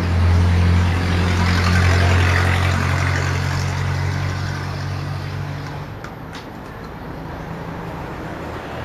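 A motor vehicle's engine running close by with a steady low hum, fading out about six seconds in.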